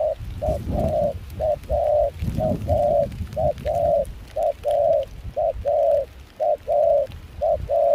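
Spotted dove cooing: a rapid, unbroken series of short and longer coo notes at one low pitch, about two to three a second, over a low rumble of wind.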